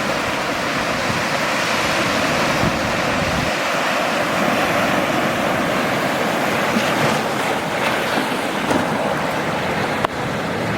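Ocean surf washing in steadily, a continuous rushing of waves with some wind.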